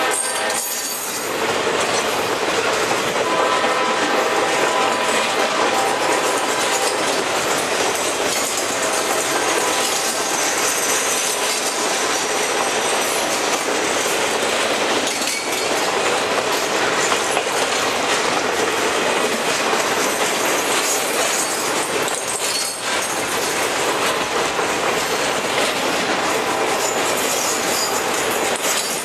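A Triple Crown RoadRailer train, highway trailers riding on rail bogies, rolling steadily past: the continuous noise of steel wheels running over the rails.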